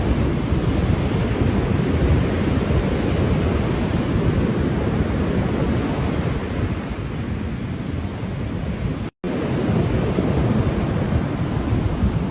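Ocean surf: a steady, unbroken wash of waves, heavy in the low end, with wind buffeting the microphone. The sound cuts out completely for a split second about nine seconds in.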